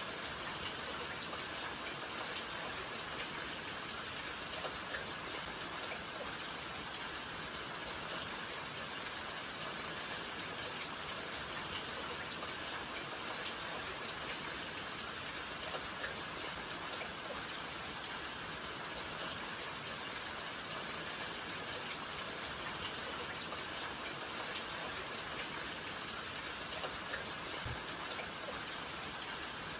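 Steady rainfall, an even hiss of dense drops with scattered individual drips ticking through it.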